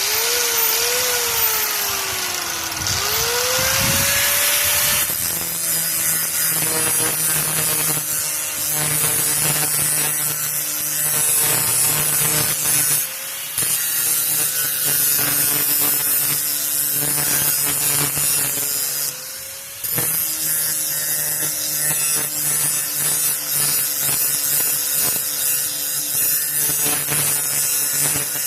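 Grinder grinding the edge of a metal power-rake blade to clean it up. Its motor pitch dips and climbs in the first few seconds as the wheel bites, then it runs steadily under load, easing off briefly twice partway through.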